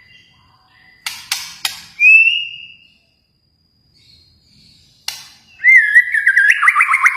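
Kalimantan-type shama (murai batu) singing: three sharp clicking notes and a rising whistle, then after a pause another click and a loud, fast warbling whistled phrase with rapid trills.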